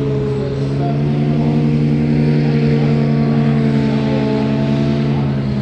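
Engine of an amphibious transformer vehicle running steadily, holding a near-constant pitch.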